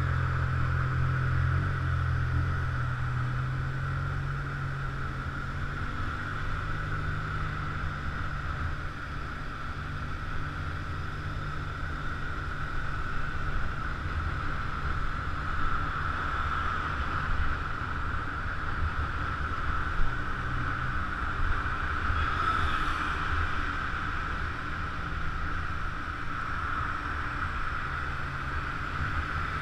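A scooter's engine running steadily under way: a low drone with a steady higher whine above it.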